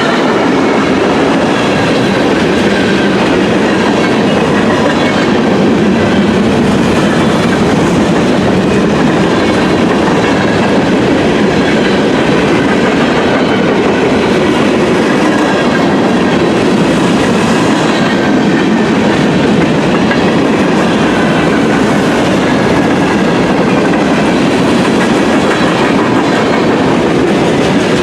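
Train cars rolling past in a steady, loud clatter of wheels over the rails.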